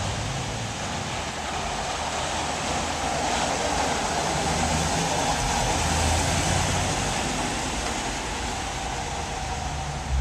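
A passing road vehicle: a steady rushing noise that swells to its loudest about six seconds in and then fades.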